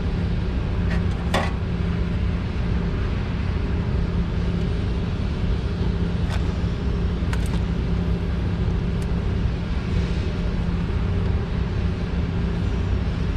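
Steady low mechanical hum, like a nearby engine or machine running, with a few light clicks and taps.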